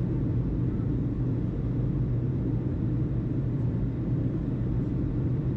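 Steady low rumble with a constant low hum underneath, unchanging throughout, in a pause between tower radio calls.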